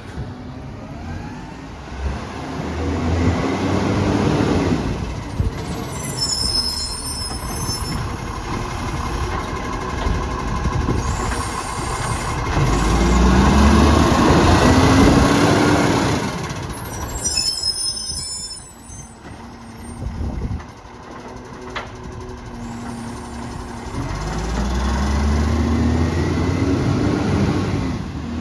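Garbage truck engine revving up three times to drive its hydraulics, each rev a rising tone. Between the revs come bursts of air hissing with squeals.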